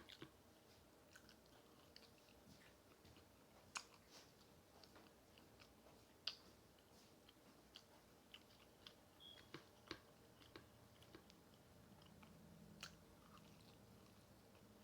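Faint chewing of fried chicken: scattered small mouth clicks and crunches, a few louder ones spaced out through the quiet.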